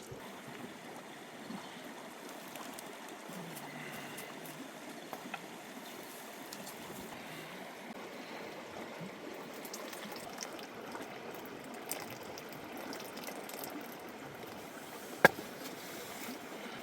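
Steady trickling water noise with a few faint ticks, and one sharp knock about fifteen seconds in.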